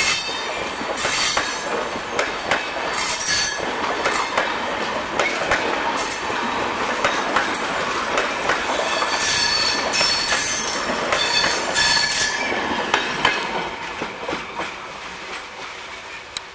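Passenger train coaches rolling past at speed: a continuous rumble with the wheels clattering irregularly over rail joints and thin, intermittent wheel squeal. The sound fades over the last few seconds as the tail of the train draws away.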